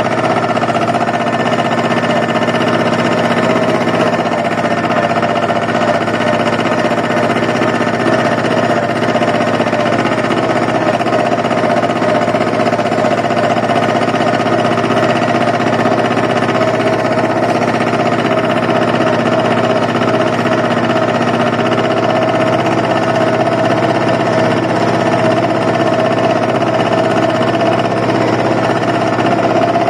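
Slavia 824 engine of a Tomo Vinković 826 compact tractor running steadily at constant speed as the tractor drives, with a fast, even knocking beat.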